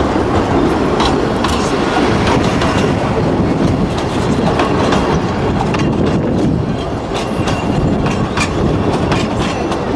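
A train running along the rails: a steady loud rumble with wheels clicking over the rail joints.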